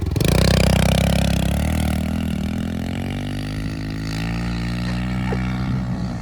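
Pit bike engine running under throttle, starting suddenly and loudest at first, then easing off a little and holding steady.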